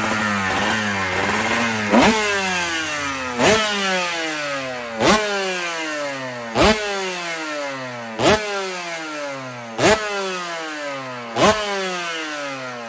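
Aprilia RS 250 two-stroke engine running on the stand and being blipped: seven sharp throttle blips about every one and a half seconds, the revs falling away slowly after each, following a couple of seconds of wavering revs.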